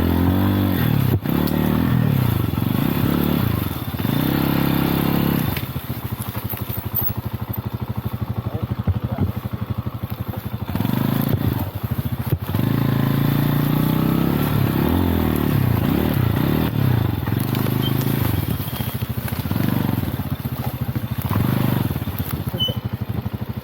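Lifan Xpect dual-sport motorcycle engine running under way, its pitch repeatedly rising and falling with the throttle and gear changes. It eases off to a quieter stretch about six seconds in and picks up again about eleven seconds in.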